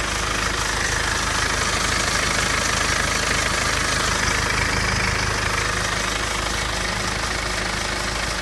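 BMW 320d's N47 four-cylinder turbodiesel engine idling steadily, with the scraping or rattling sound its owner suspects may be timing-chain noise.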